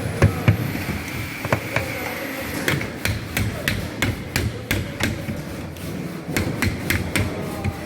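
A hammer tapping a sheet-metal cleat onto the flanged joint between two air-conditioning duct sections, driving it on so the joint closes. It is a run of sharp, ringing metal strikes: a few scattered at first, then steadier at about three a second from about three seconds in.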